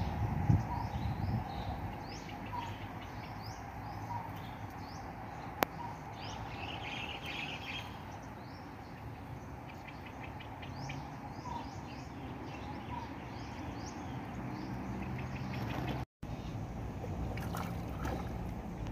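Small birds chirping over and over in short rising calls, with a softer repeated note in between, over a steady low background hum. There is a thump near the start and a single sharp click about five and a half seconds in.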